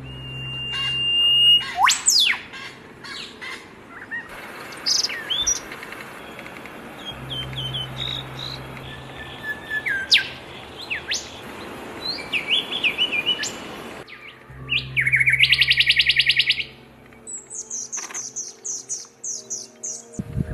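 Small exotic aviary birds, zebra finches among them, chirping and calling in a steady stream of short chirps and sliding whistles. About 15 seconds in, a loud buzzy rapid trill lasts a second or two, followed by a run of quick high chirps.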